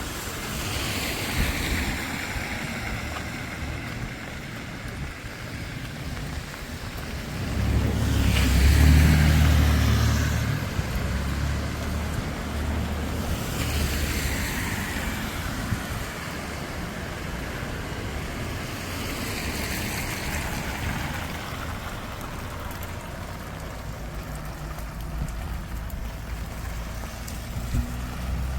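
Cars passing one after another on a wet road, about four in all, each a swell of tyre hiss on the wet surface that falls in pitch as it goes by. The loudest comes about eight seconds in, with engine rumble under the hiss, over a steady background of wet-weather noise and wind on the microphone.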